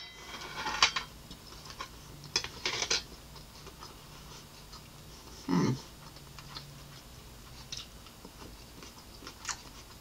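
Close-miked chewing of a mouthful of scrambled eggs: wet mouth clicks and crackles, heaviest in the first three seconds, with a brief low hum a little past halfway.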